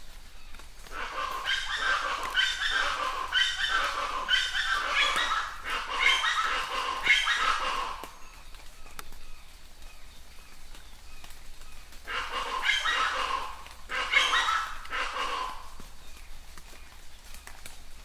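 A bird calling in a rapid run of repeated notes for most of the first eight seconds, then again in a shorter bout about twelve seconds in, over a steady background of falling rain.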